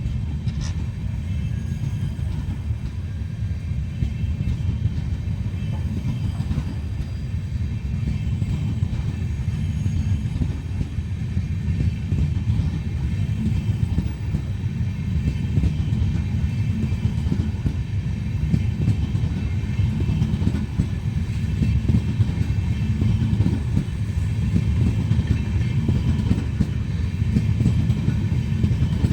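Passenger express train running along the track: a continuous low rumble of wheels on rails, growing slightly louder.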